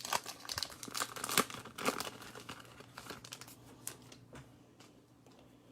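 Topps Heritage baseball card packaging being opened by hand: quick crinkling and tearing of the wrapper, dying away after about four seconds.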